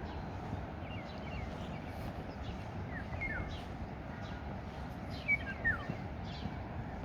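Small birds chirping in short, quick downward-sliding calls in a few clusters, loudest about five and a half seconds in, over a steady rush of running water.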